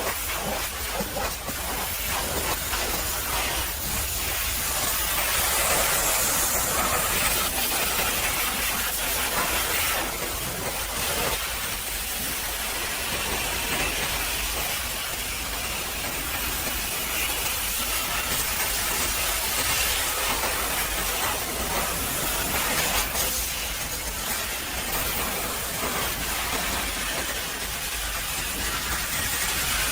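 Pressure washer spraying a high-pressure water jet, a steady hiss that swells and eases as the spray moves.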